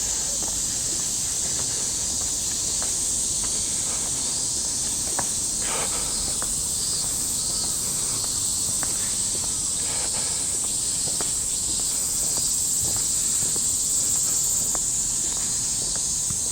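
Steady high-pitched chorus of cicadas, with faint, irregular footsteps underneath.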